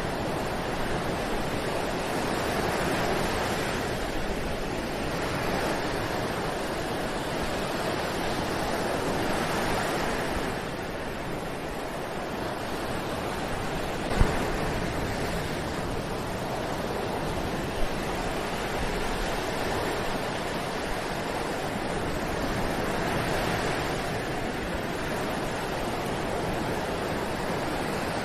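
Ocean surf breaking on a beach: a continuous wash of waves that swells and ebbs every several seconds. Two brief sharp clicks are heard, one about halfway through and one a few seconds later.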